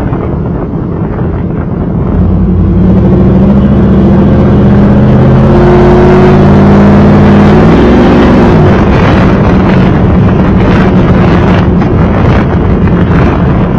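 1995 Chevrolet Camaro Z28's LT1 V8 running through a Flowmaster exhaust. The exhaust note grows louder about two seconds in and holds strong until about eight seconds, when its pitch falls away, leaving a rushing wind noise.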